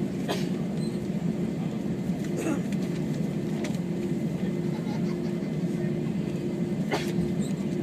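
Airbus A321 cabin noise while taxiing after landing: the steady low drone of the engines at idle, with a faint steady tone above it. A few short clicks or knocks sound about a third of a second, two and a half, three and a half and seven seconds in.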